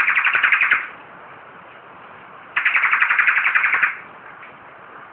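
Bar-winged prinia (ciblek) singing: rapid, buzzy chattering trills of a bit over a second each. One trill ends about a second in and another comes near the middle.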